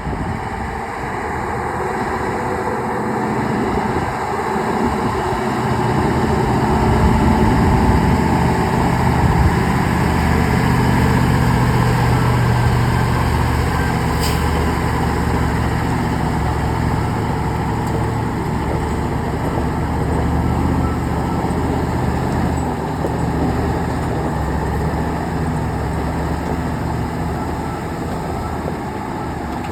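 Mercedes-Benz 2544 truck engine running under load. It grows louder through the first third and then eases back. A short, sharp high hiss or click comes about halfway through.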